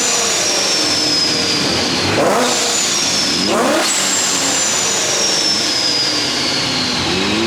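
Car engine revving in short blips, three quick rising revs, with a high whine that slowly falls in pitch after each.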